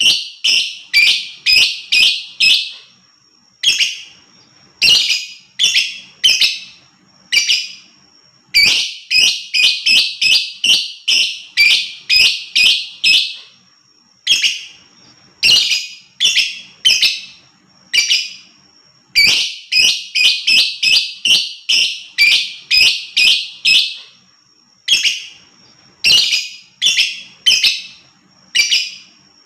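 Lovebird giving loud, shrill, piercing call notes in quick runs of three to six, about three a second, with short pauses between runs. A faint steady high whistle runs beneath.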